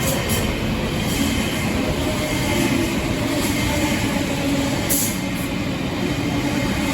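A train in motion: the steady rumble of wheels running on the rails.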